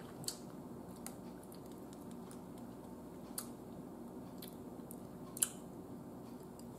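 Faint mouth-closed chewing with four short wet mouth clicks, the loudest about five and a half seconds in, over a low steady room hum.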